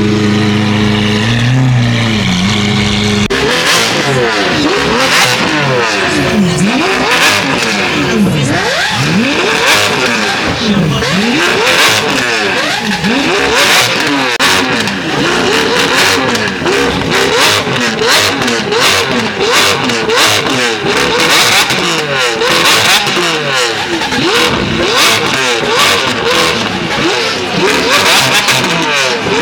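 Car engines revving again and again, several at once, each rev rising and falling in pitch about once a second.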